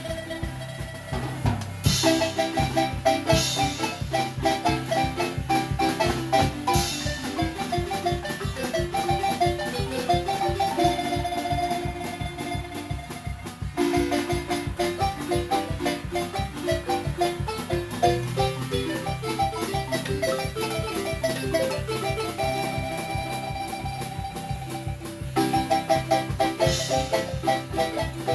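Marimba music: mallets play fast rolled and repeated melody notes over a steady bass line and a regular beat, with a brief pause in the phrase about halfway through.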